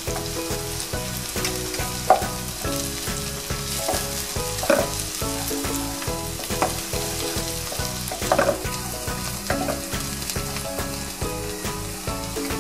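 Sliced onions and cumin seeds sizzling in hot oil in a nonstick wok, stirred with a wooden spatula, with a few sharper scrapes and knocks of the spatula against the pan.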